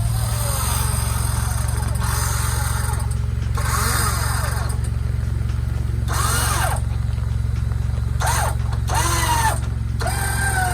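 A vehicle engine running with a steady low drone. Over it come a few short calls that rise and fall in pitch, about four, six and a half and nine and a half seconds in.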